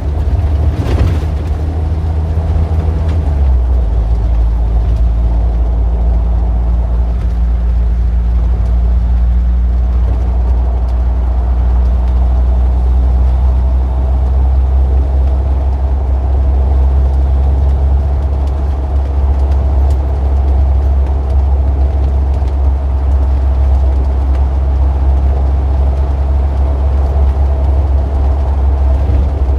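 Street traffic dominated by a steady, loud, low engine hum from a nearby motor vehicle, with a slight change in its pitch about three and a half seconds in.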